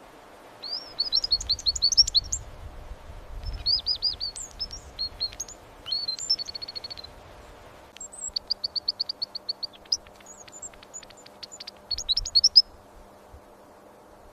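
A songbird singing in phrases of rapid high chirps and trills, about five bursts with short pauses between them. One phrase is an evenly repeated run of notes.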